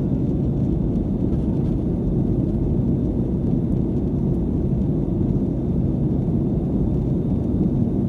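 Steady low rumble of airliner cabin noise: the engines and rushing air heard from inside the passenger cabin.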